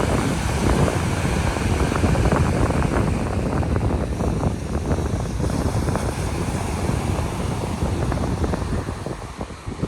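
Wind buffeting the microphone, a loud, gusty low rumble, easing a little near the end.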